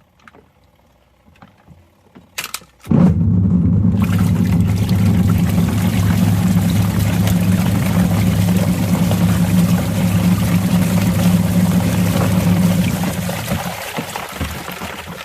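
Washing machine running a wash cycle with plastic toys inside: the motor pauses, a few knocks of toys come about two and a half seconds in, then the motor hums again as the drum churns water and toys, and it winds down near the end.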